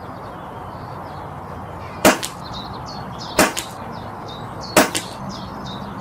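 Brocock Concept PCP air rifle firing three shots in quick succession, about a second and a half apart, each a sharp crack with a short tail. Birds chirp faintly in the background.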